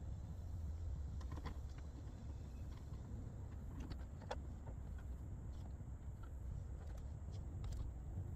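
Scattered light clicks and taps from work on the car's interior dash trim, over a steady low rumble.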